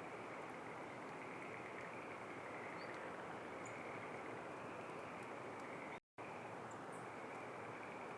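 Steady outdoor background hiss with a few faint, short, high bird call notes scattered through it. The sound drops out completely for a moment about six seconds in.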